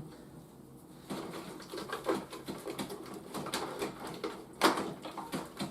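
Hard plastic toy parts being handled: a run of small clicks and taps, with one louder knock late on.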